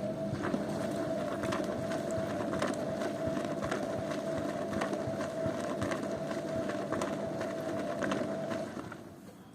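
Zanussi washing machine running, its drum turning with a steady motor whine and scattered clicks and knocks. The motor stops about nine seconds in.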